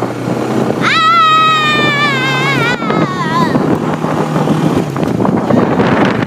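A small vehicle's engine running steadily under wind noise while riding along a trail. About a second in, a high voice sings out one long, wavering note for two to three seconds.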